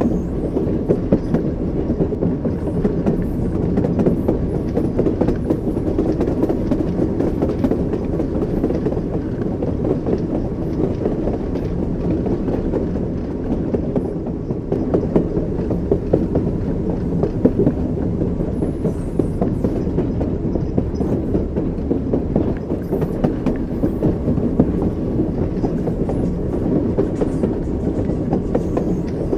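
Railway carriage running along the track: a steady rumble of the wheels with the clickety-clack of wheels passing over rail joints.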